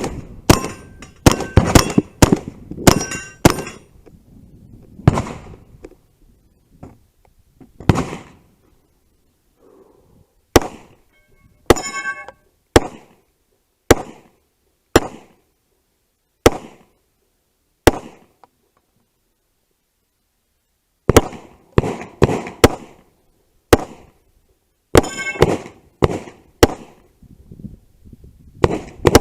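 Gunshots fired in strings, a rapid burst at first, then single shots about a second apart, a pause of about three seconds, and another fast string near the end; some shots are followed by the ring of hit steel targets.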